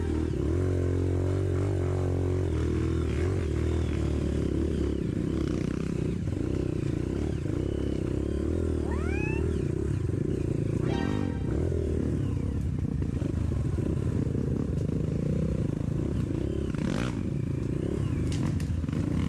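Trail motorcycle engine running, its revs rising and falling as it is ridden. A short rising whistle is heard twice.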